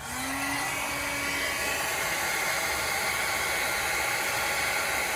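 Heat gun switched on and running steadily, a fan whir with an airy hiss, heating the heat-cure vinyl repair compound. It starts abruptly, with a low hum that rises briefly as the motor spins up.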